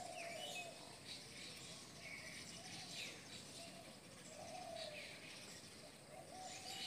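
Faint birds chirping: short, repeated high chirps and lower wavering calls, over a soft background hiss.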